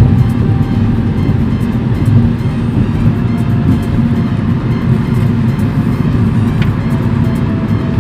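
A car driving, its engine and road noise steady, with music playing along.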